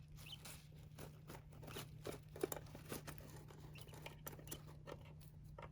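Faint rustling and irregular soft clicks and taps from hands working over a king quail chick during an oil leg massage, with a small bird's brief high peep once near the start and again about four seconds in.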